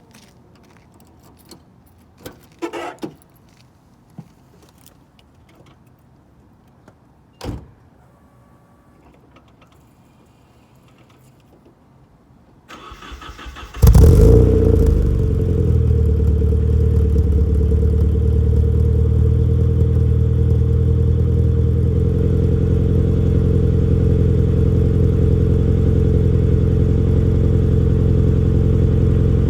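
Cold start of a Nissan 240SX S14's four-cylinder engine through an HKS Hi-Power exhaust: after a few clicks and a thump, the starter cranks for about a second, the engine catches with a loud burst a little under halfway through, then settles into a steady idle.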